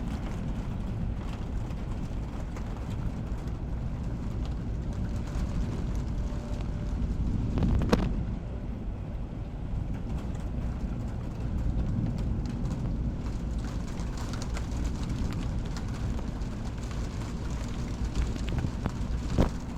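Storm wind buffeting the microphone as a steady low rumble. A louder, sharp crack comes about eight seconds in, and a shorter one near the end.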